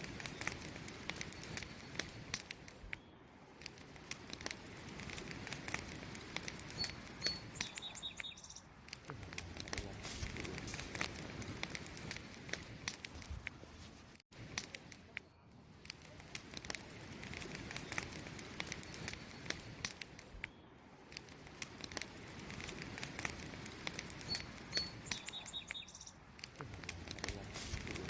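Wood campfire crackling with many sharp pops and snaps, over a steady background of crickets chirping; a couple of short high chirps sound twice. The sound cuts out for an instant about halfway, where the recording loops.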